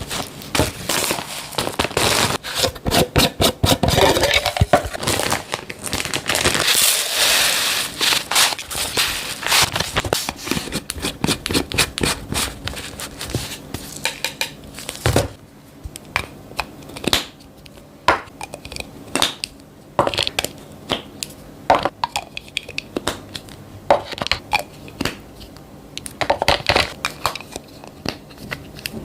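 Plastic packaging crinkling and containers clicking and clattering as food is refilled into storage containers for the fridge. The sound is dense and continuous for about the first fifteen seconds, then turns into sparser single clicks and knocks.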